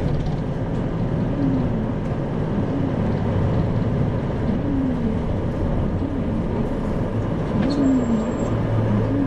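Isuzu Erga (2RG-LV290N4) city bus under way, heard from inside the cabin. Its diesel engine drones steadily over road noise, with slight rises and falls in pitch.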